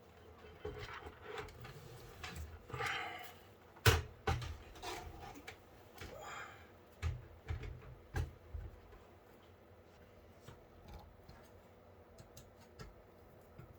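Scattered knocks and clicks of a PC power supply being handled and fitted into a computer case. There is one sharp click about four seconds in and a run of knocks a few seconds later, then only faint ticks.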